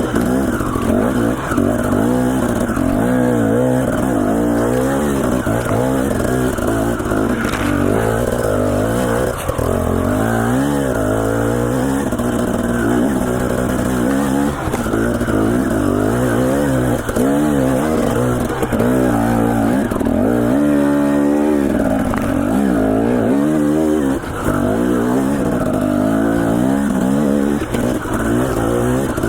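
Dirt bike engine revving up and down continuously on technical single track, its pitch rising and falling with each throttle change. About twenty seconds in comes one longer, steadier rise in pitch.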